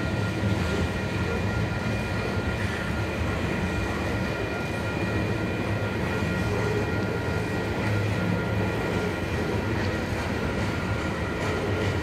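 Freight train of tank cars rolling past at a steady pace: a continuous rumble of wheels on rail, with thin steady high tones over it.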